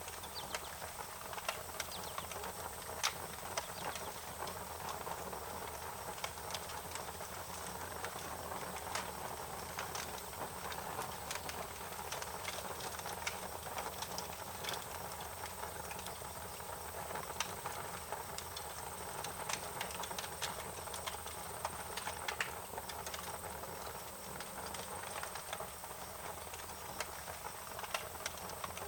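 Wood fire crackling: irregular sharp pops and snaps over a steady hiss, with a thin steady high tone behind it.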